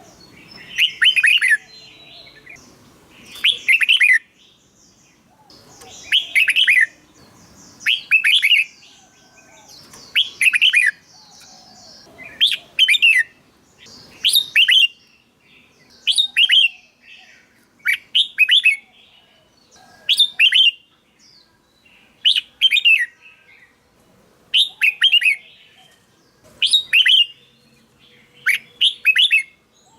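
Red-whiskered bulbul singing: short, quick warbled phrases of a few notes each, repeated about every two seconds.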